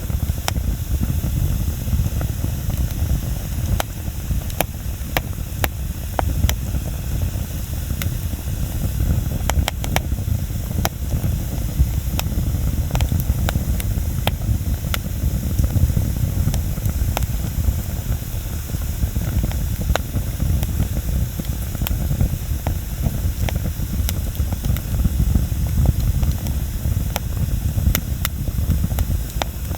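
Wood bonfire burning: a steady low rumble of the flames with frequent sharp crackles and pops from the burning wood, scattered unevenly.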